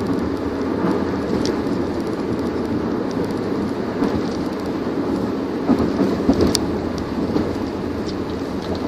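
Steady road and engine noise of a car driving, heard from inside the cabin, with a couple of faint clicks.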